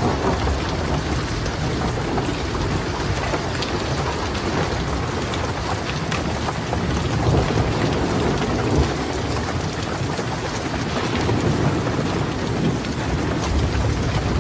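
Steady rain falling, with thunder rumbling low in the background and swelling twice, about halfway through and again near the end.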